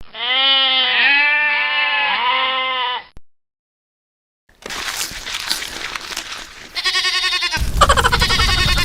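Farm animal bleating: one long wavering bleat, then after a short pause a stretch of noise and two more wavering bleats near the end.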